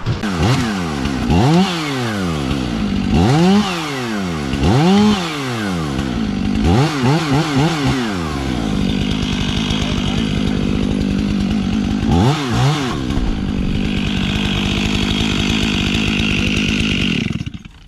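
Gas chainsaw revved up and down four or five times, then held at high revs for about nine seconds as it cuts into the butt end of the tree, with one brief dip in speed, before dropping away near the end.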